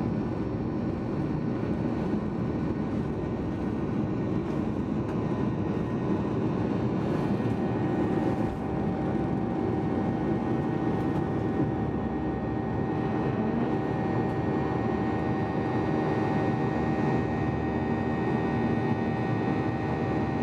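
Steady cabin noise of a Boeing 737-800 with its engines running, heard from inside the cabin: an even rushing hum with a few steady whine tones above it, one of which joins about seven seconds in.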